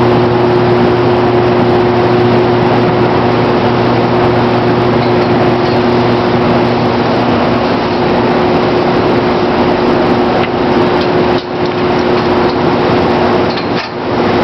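Machinery running steadily: a constant low hum with a loud, even hiss over it, dipping briefly a few times near the end.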